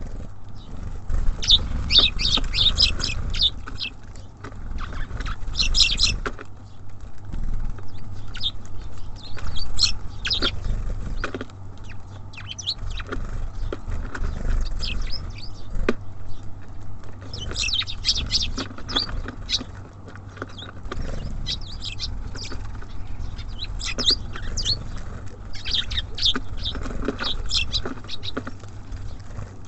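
Small songbirds at a feeder chirping in quick bunched bursts of high notes, with wing flutters and soft knocks as they land and feed, over a low rumble.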